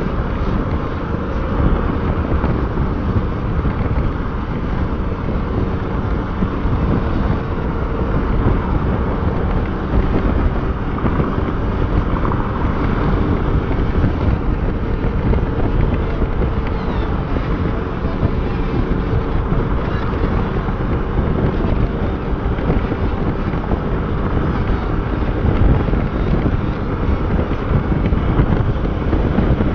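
Motorcycle on the move at a steady pace: the engine's hum is heard under a heavy, steady rush of wind buffeting the microphone.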